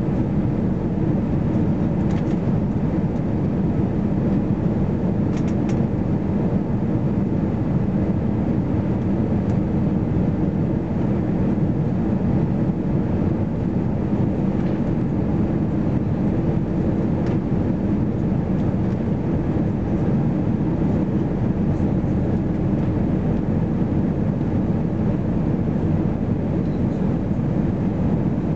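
Steady cabin noise inside an Airbus A320-214 in flight: an even, low rush of its CFM56 engines and airflow past the fuselage, with no change in level.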